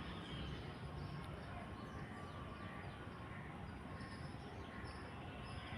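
Faint birds chirping in the background over a low steady hum of room noise.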